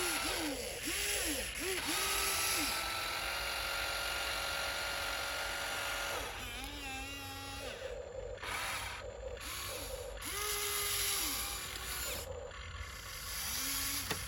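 Small electric drive motors and gearing of a radio-controlled dump truck whining, rising and falling in pitch in short spurts as the throttle is worked, with a steady whine for a few seconds in the middle.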